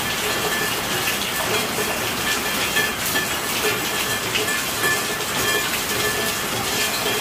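Steady rainfall, a dense even hiss full of individual drops pattering on a surface.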